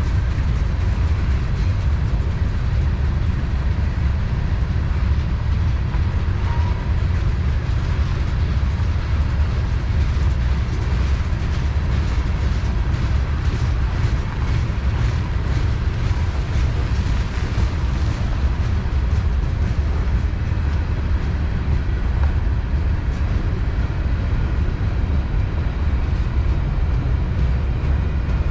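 Freight cars of a CSX manifest train rolling past, with a steady low rumble and faint clicks of wheels over the rail joints.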